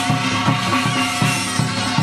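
Korean shamanic ritual music: a sustained wind-instrument melody over a steady drum beat of about three strikes a second.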